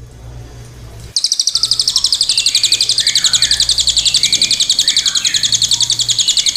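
A loud, high, evenly pulsed trill, about a dozen pulses a second, starts about a second in and holds steady, with faint short bird chirps beneath it. A low hum sounds before the trill begins.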